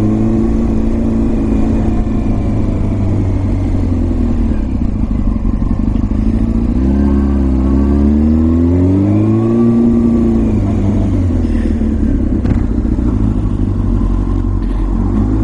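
Motorcycle engine running at road speed, its pitch climbing and easing off twice as the throttle changes, over a steady rush of wind on the microphone.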